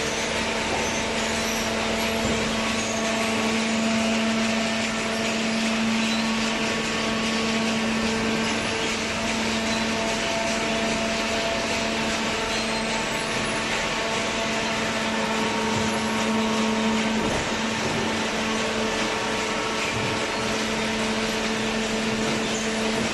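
Cardboard baler's hydraulic power unit running: an electric motor and hydraulic pump giving a steady hum over a constant mechanical whirr, with no change in pitch or level.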